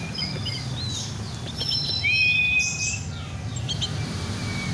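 Oriental magpie-robin (kacer) singing: a run of varied whistles and chirps, with one louder, clear whistle about two seconds in, over a steady low hum.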